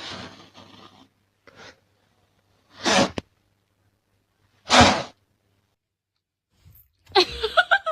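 Two short sneezes, the first about three seconds in and the second nearly two seconds later.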